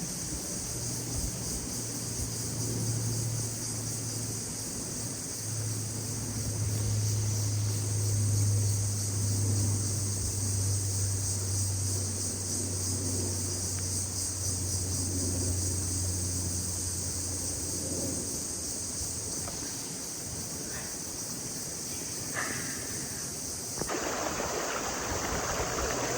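Insects buzzing steadily and high-pitched, with a low hum underneath that fades near the end. A wider rushing sound, like flowing water, comes up near the end.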